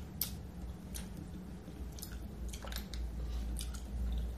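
A person chewing seafood from a boil of mussels and shrimp in sauce, with wet mouth sounds and scattered sharp smacking clicks. A steady low hum runs underneath.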